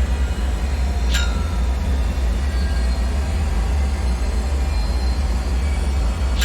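Dark ambient soundscape: a steady, deep rumble with a hiss over it. Twice, about a second in and again at the end, a short sharp sound falls quickly in pitch.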